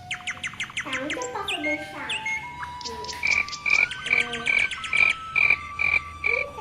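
Frog croaking and chirping calls with rapid clicking trills and gliding notes; in the second half a short high note repeats about twice a second.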